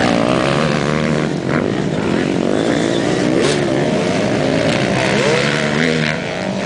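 Motocross motorcycle engine noise: engines revving, the pitch climbing and dropping again and again.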